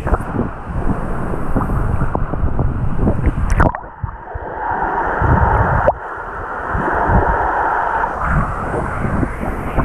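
Muffled water sloshing and gurgling right against the microphone, with irregular knocks from handling. The sound changes abruptly about four seconds in and again about six seconds in.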